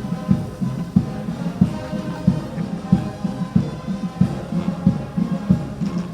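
Military band playing, a bass drum beating steadily about one and a half times a second under sustained band tones.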